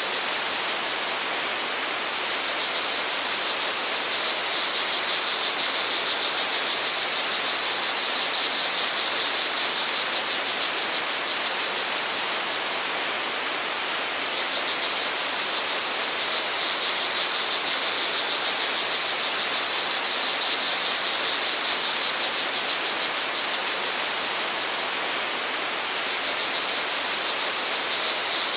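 Steady rush of flowing water, with crickets trilling high above it in swells that come and go every several seconds.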